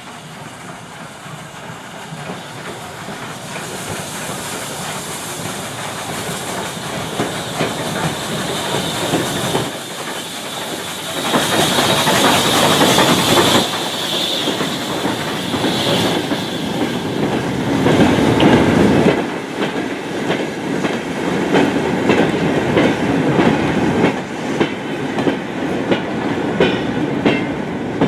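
A train running past, growing louder over the first dozen seconds. In the second half its wheels give a steady clickety-clack over the rail joints.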